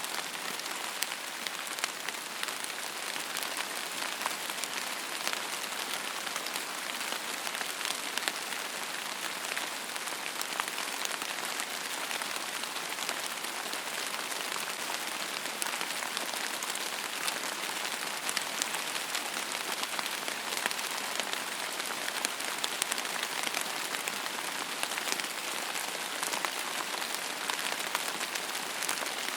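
Steady rain falling on a surface: an even hiss of rainfall with many small, distinct drop impacts, no thunder.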